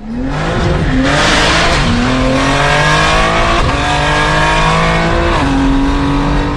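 Turbocharged performance car engine at full throttle, its pitch climbing steadily through each gear and dropping sharply at the upshifts, about three times.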